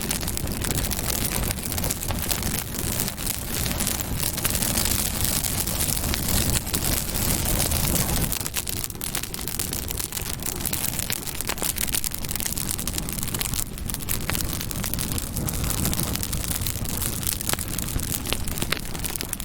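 Campfire burning: wood crackling with frequent sharp pops over a steady hiss from the flames.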